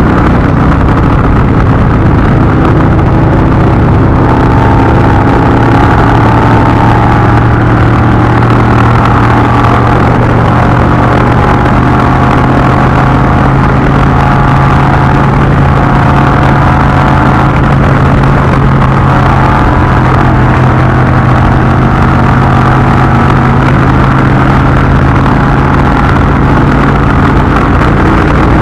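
Indian V-twin motorcycle engine running at a steady cruise, its pitch nearly constant throughout, over a loud rush of wind and road noise.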